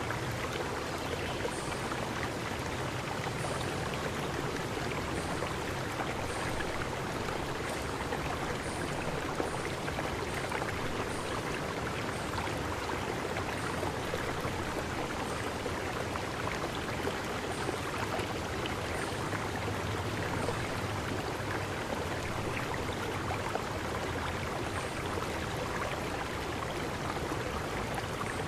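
River stream flowing, a steady even rush of water, with short high chirps about once a second.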